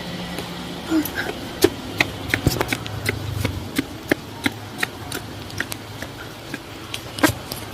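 Rain: scattered drops ticking irregularly on a hard surface over a steady hiss.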